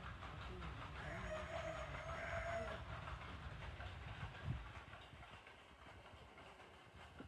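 Water pouring and splashing onto plant leaves, a steady rushing haze with a low rumble that eases off after about five seconds. About a second in, a single long call sounds in the background for nearly two seconds, and there is a short thump a little past the middle.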